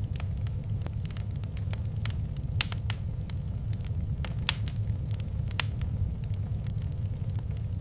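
Fire crackling in a fireplace: irregular sharp pops and snaps, a few louder ones in the middle, over a steady low rumble.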